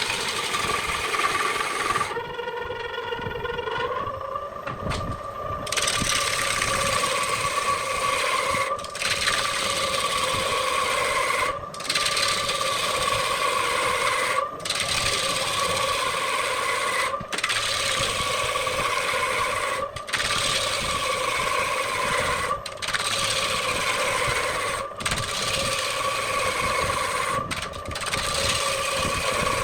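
Wood lathe running with a steady motor whine while a turning tool scrapes and cuts the spinning wood. The cutting noise breaks off briefly every two to three seconds.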